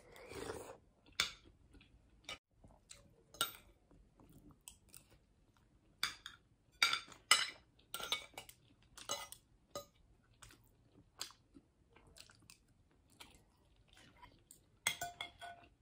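Close-up chewing and wet mouth smacks while eating a mouthful of lomi noodles, in short irregular clicks. Near the end, a brief clink of a utensil against a dish.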